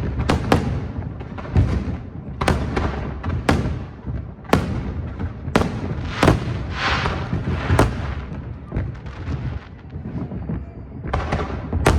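Fireworks going off: a steady run of sharp bangs about one a second, with a stretch of crackling about seven seconds in.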